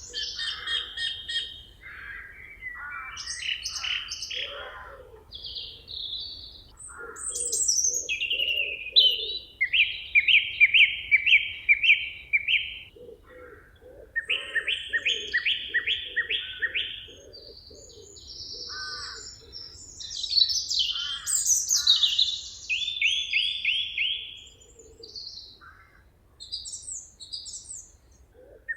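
Forest songbirds singing, a mix of short chirps and calls with phrases of rapid, evenly repeated notes that come several times, each lasting a few seconds.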